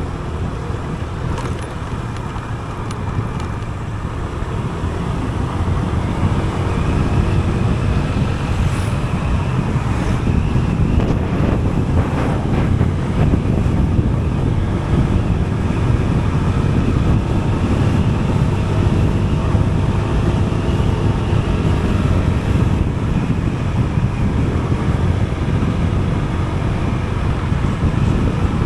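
Wind rushing over the microphone and road noise from a moving vehicle, with an engine's pitch slowly rising and falling as it changes speed; it gets louder about six seconds in.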